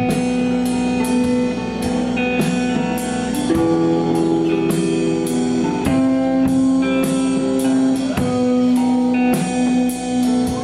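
Live band playing the instrumental intro of a rock song: electric guitar notes ringing over a drum kit keeping a steady beat.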